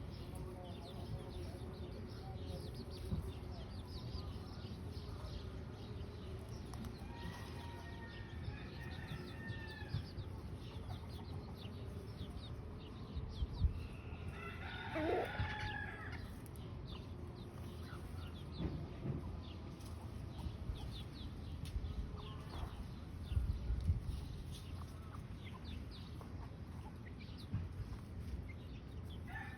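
Chickens calling: scattered short clucks and high peeps, with one louder rising call, like the start of a rooster's crow, about halfway through, over a steady low background rumble.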